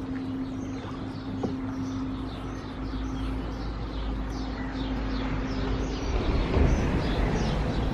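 Small birds chirping over and over in short, high, falling notes, over a steady low hum. A low rumble swells to become the loudest sound in the last couple of seconds.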